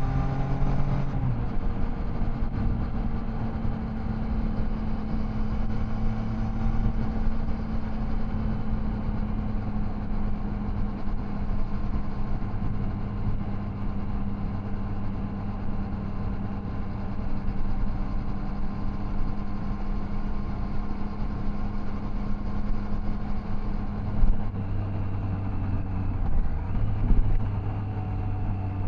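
Triumph Tiger Sport 660's three-cylinder engine running at a steady cruising speed under wind and road noise, its pitch dropping off in the first second. Near the end there is a short sharp knock, and the engine's pitch shifts a few seconds later.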